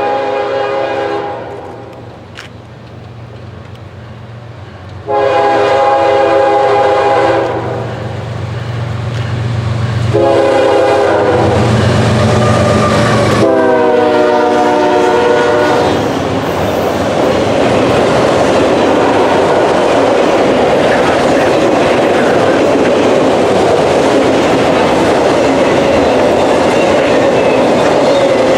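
Diesel freight locomotive sounding its horn in several long blasts, the last one lower in pitch as the locomotive goes by. Then the steady rumble and clickety-clack of the freight cars rolling past.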